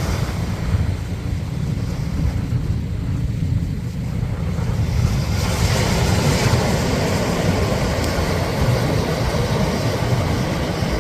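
A four-wheel drive running along a sand beach: a steady low rumble of engine and tyres, with wind buffeting the microphone.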